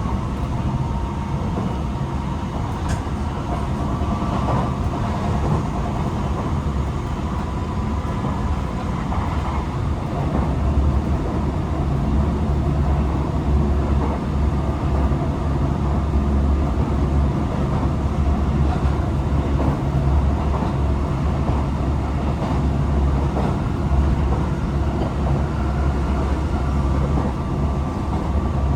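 Tokyo Metro 18000 series electric train heard from inside the car while running: a steady rumble of wheels on rail and running gear, with a few short clicks from the track.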